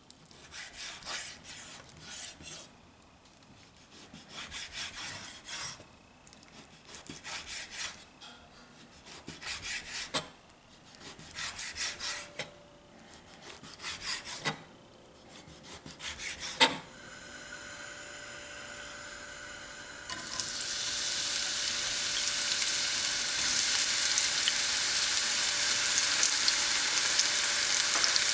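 Rubbing or scraping strokes, one every second or two, then a sharp click and a faint steady hiss. About twenty seconds in, loud steady sizzling of food frying in a hot pan takes over.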